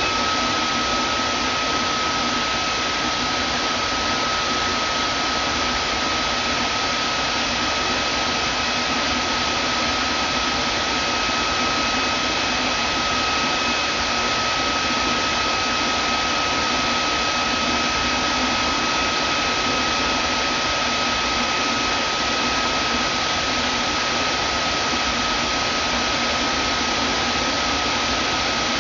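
Vacuum cleaner running steadily: an even rushing of air with a steady high motor whine.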